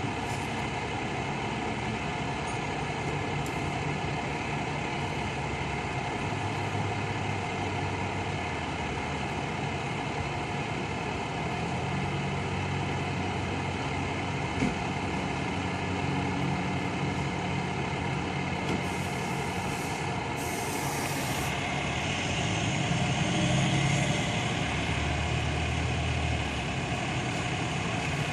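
Fire truck diesel engines running and idling, with two short air-brake hisses about two-thirds of the way through.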